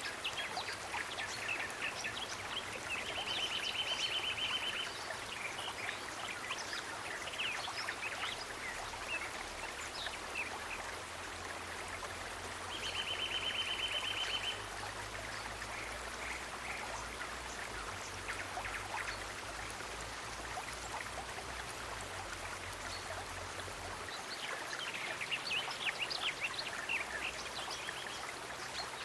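Steady running water of a stream with many short bird chirps over it, and twice a rapid pulsing trill lasting a second or two.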